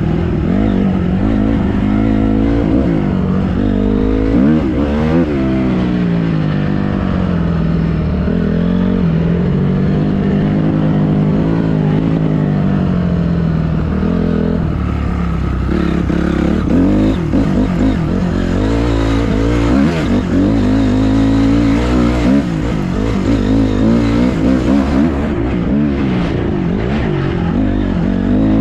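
Small dirt bike engine running, its pitch rising and falling again and again as it is revved up and eased off.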